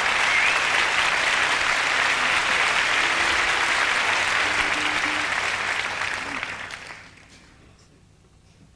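Concert hall audience applauding. The applause dies away about seven seconds in. Heard on a cassette tape recording.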